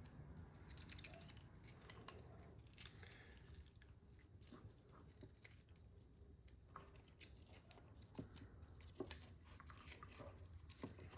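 Near silence with faint, scattered small clicks and ticks of hand tools and plastic RC car parts being handled.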